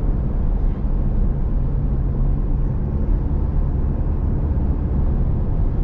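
Steady low rumble of engine and tyre noise inside a vehicle's cabin while it drives along at road speed.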